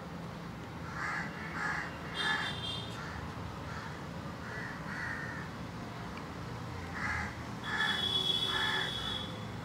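Birds calling outdoors: a string of short, separate calls, about eight in all, with a higher, longer call twice.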